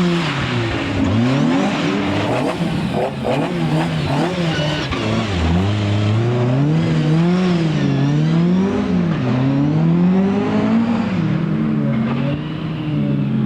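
Rally car engine driven hard, revving up and lifting off again and again, its pitch climbing and dropping every second or so through the bends and gear changes.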